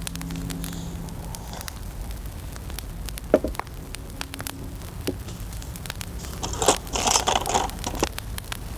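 Sharp crackles and clicks over a steady low wind rumble, with a louder stretch of rustling about seven seconds in.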